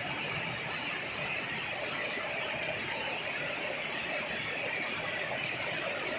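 Steady heavy rain falling on bamboo leaves, an even unbroken hiss.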